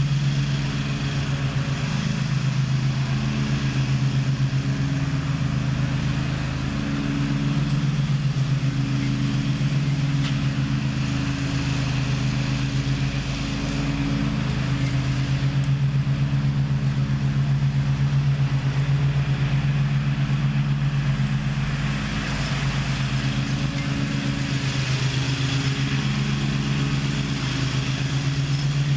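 Gravely ZTX 42 zero-turn mower's engine running steadily under load, its pitch shifting slightly now and then.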